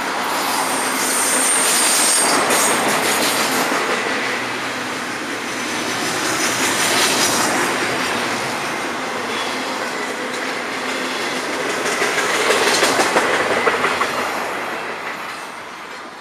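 Freight train cars rolling past on the rails, with steady clatter and a high wheel squeal about a second in. The clatter grows louder around twelve seconds in, then the sound falls off near the end.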